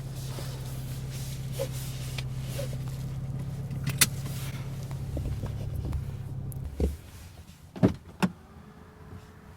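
Inside a Mercedes-AMG A35, a steady low hum from the car cuts off about seven seconds in. A knock and two sharp clicks follow, and near the end comes the faint whine of the electric seat motor sliding the seat back for easy entry.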